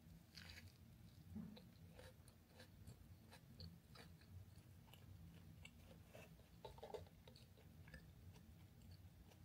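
Faint close-up chewing of food: scattered small crunchy clicks and ticks over a low steady hum.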